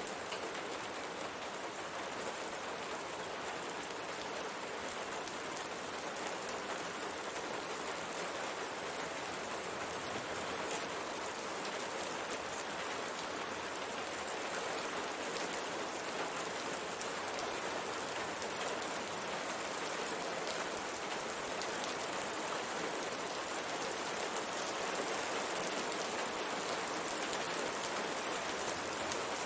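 Steady rain pattering on a window, a dense even hiss of drops with fine scattered ticks.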